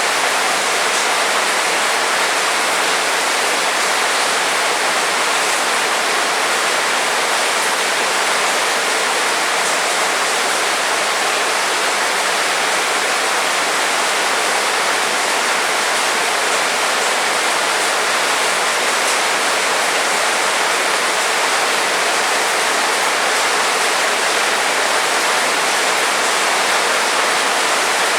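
Heavy rain falling, a loud, even, unbroken hiss with no thunder.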